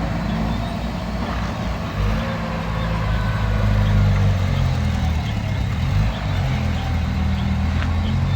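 Heavy diesel engine of the recovery machinery running under load, its pitch stepping up and down as the throttle changes, with a louder stretch from about two seconds in.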